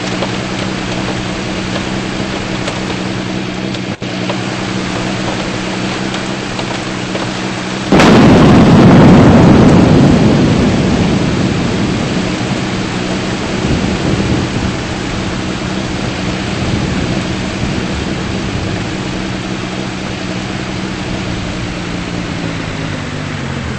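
Steady rain with a low steady hum underneath. About eight seconds in, a close thunderclap cracks suddenly and loudly, then rumbles away over the next few seconds.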